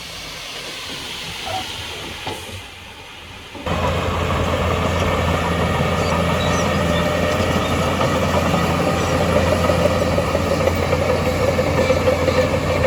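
Heavy earthmoving machine running: a diesel engine with a dense metallic rattling clatter, which starts abruptly and loudly nearly four seconds in after a quieter, noisy stretch.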